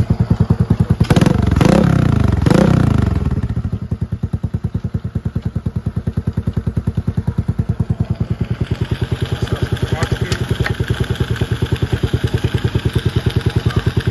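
Zuumav S3 125cc dirt bike engine idling with an even, rapid beat. The throttle is blipped twice, about one and a half and two and a half seconds in, the revs rising and falling each time before it settles back to idle.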